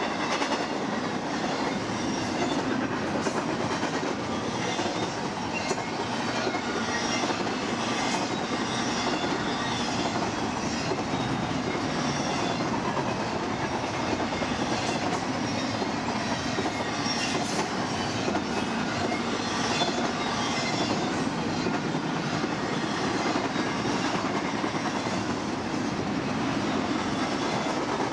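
BNSF freight train rolling past, a steady rumble and rattle of steel wheels on rail with scattered faint clicks.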